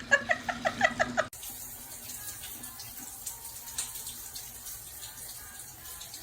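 Rapid short squeaky chirps, about five a second, that cut off abruptly about a second in, followed by the steady faint hiss of running water.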